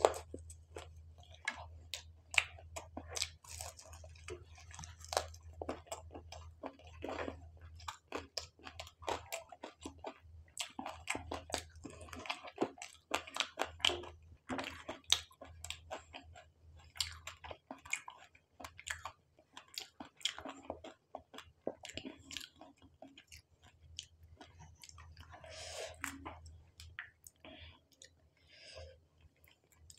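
A person chewing and crunching fried food close to the microphone, with many sharp crunches and wet mouth clicks throughout. A low steady hum lies underneath for about the first dozen seconds.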